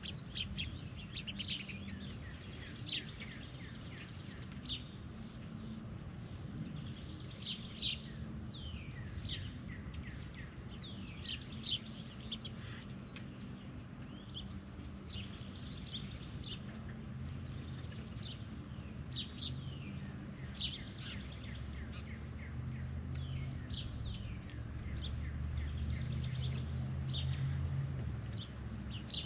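Birds chirping over and over in short, quick downward chirps, over a steady low rumble that swells near the end.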